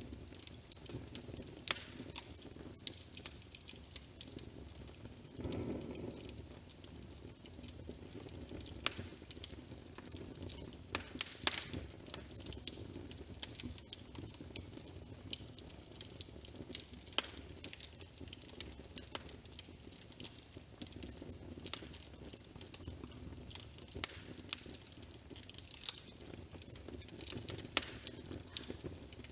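Fireplace fire crackling: irregular sharp pops and snaps over a low, steady rush, with a brief louder swell about five or six seconds in.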